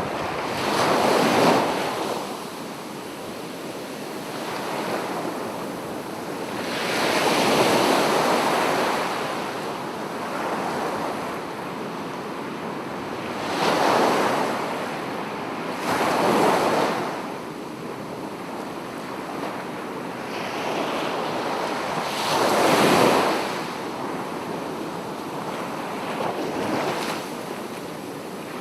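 Sea waves breaking on a beach, each one swelling and washing back, with a louder surge every four to six seconds.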